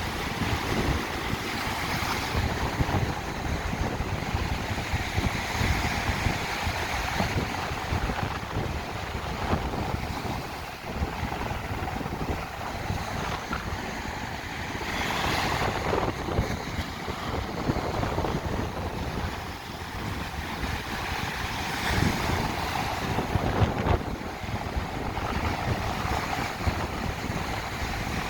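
Sea waves washing onto a sandy beach, swelling a few times, with strong wind buffeting the microphone.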